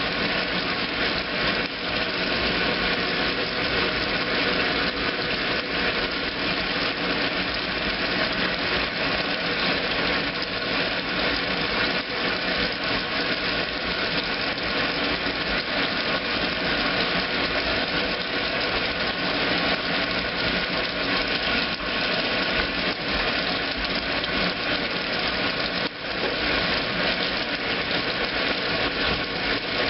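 2008 Kenmore washing machine running in its heavy duty cycle: a steady motor hum with several even tones and a brief dip about 26 seconds in.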